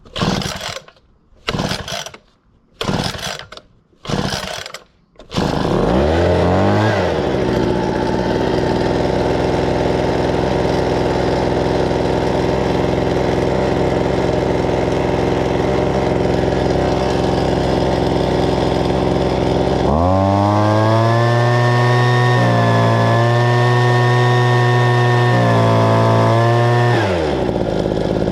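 Homelite handheld leaf blower's small two-stroke engine pull-started: four or five pulls on the recoil starter, then it catches about five seconds in and runs steadily. About two-thirds of the way through it is throttled up to a higher, steady speed that sags twice before it drops back near the end. The owner takes this as bogging that calls for a richer carburettor setting.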